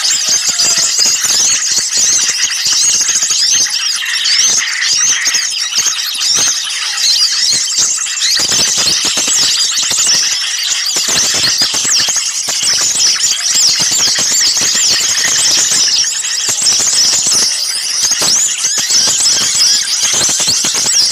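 Dense, continuous chorus of many small songbirds chirping and chattering at once, high-pitched and without a break. It is a bird-lure recording of a noisy, agitated flock of small birds, the kind played to draw other small birds in.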